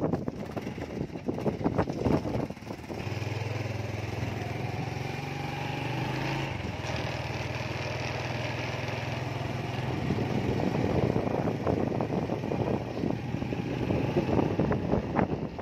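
A small engine running steadily, starting about three seconds in and fading after about ten seconds, with wind buffeting the microphone at the start and again near the end.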